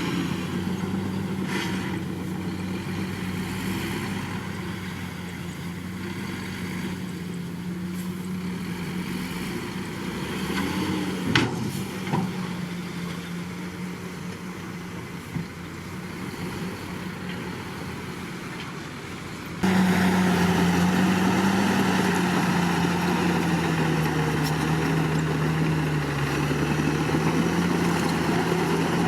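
Heavy diesel earthmoving engine running steadily, with a sharp click about eleven seconds in. About two-thirds through, the sound abruptly gets louder and harsher, and the engine note dips slightly as if under load.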